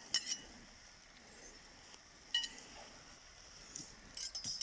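A few sharp metallic clinks of a utensil against the kazan while vegetables are added to the stew: one near the start, one a little past halfway, and a quick cluster near the end, each ringing briefly.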